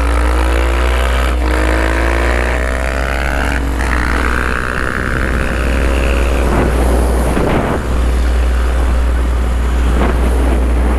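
Small four-stroke dirt bike engine accelerating, its pitch climbing over the first few seconds, then running on at speed, with heavy wind buffeting the microphone.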